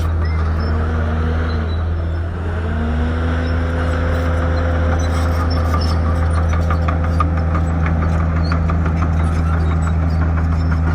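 Shantui bulldozer's diesel engine running under load, its pitch dipping and rising a couple of times in the first few seconds, then holding steady. From about halfway a rapid run of ticks or clanks joins it.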